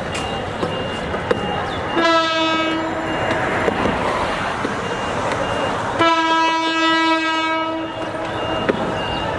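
Bangladesh Railway locomotive horn sounding twice as the train approaches the level crossing: a short blast about two seconds in, then a longer one of about two seconds. Under it is street and rail noise and a high beep repeating about twice a second.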